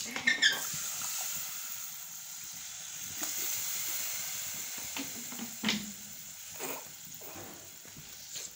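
Semolina sizzling steadily as it roasts in a pot for halwa, with a few scrapes of a slotted spatula stirring it. The sizzle eases slightly toward the end.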